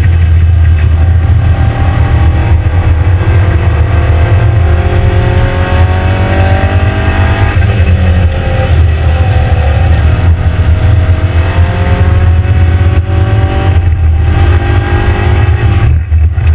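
Lotus Elise S1's four-cylinder engine under hard acceleration on track, heard from inside the cockpit over a heavy low rumble. The revs climb, drop at a gear change or lift about seven and a half seconds in, then climb again, with brief drops near the end.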